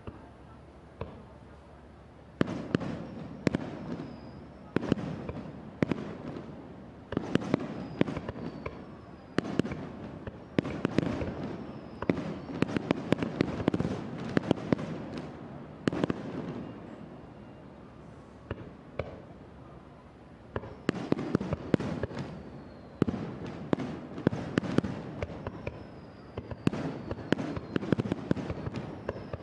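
Aerial fireworks shells bursting in rapid volleys of sharp bangs, each cluster trailing a rumbling echo, with a short lull partway through.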